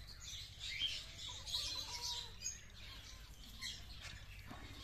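Small birds chirping: short high chirps scattered through, a few at a time, over a steady low rumble.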